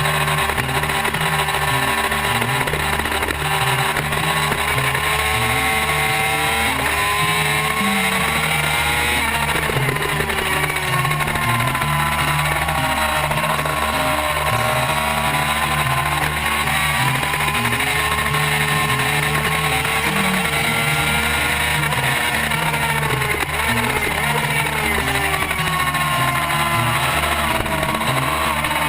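Racing superbike engine under load, its pitch climbing and falling again several times as the revs rise and drop, over a steady rush of noise.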